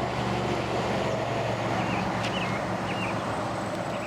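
Highway traffic passing: a steady rush of tyres and engines from cars and trucks on a four-lane highway, with a low engine hum underneath.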